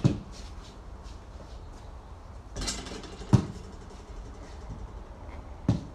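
Basketball hitting a hard surface: three separate thuds a few seconds apart, with a brief scuffing noise shortly before the second.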